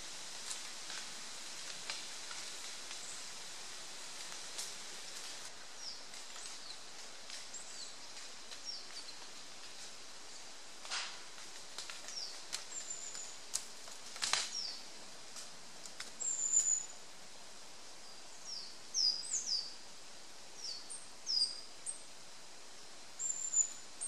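Japanese white-eyes giving short, high-pitched calls, some falling in pitch, scattered at first and then more frequent, over a steady hiss. Two sharp clicks about halfway through.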